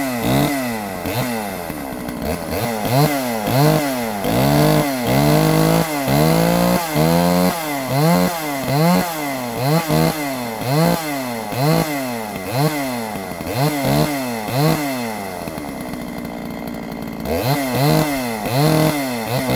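Solo 647 two-stroke chainsaw fitted with a ported dual-port muffler, its throttle blipped over and over so the engine revs up and falls back about once a second. About fifteen seconds in it drops to a steady idle for a couple of seconds, then the revving starts again. The uploader says the saw needs a carb adjustment.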